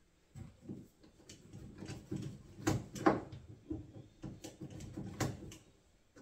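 Irregular knocks and clatter of hands and tools working on wooden kitchen cabinet units, with two sharper knocks close together about three seconds in.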